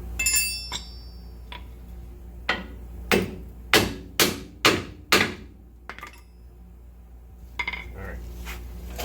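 Hammer striking metal six times in quick succession, about half a second apart. A ringing metallic clink comes just before the strikes, and lighter metal clinks follow near the end.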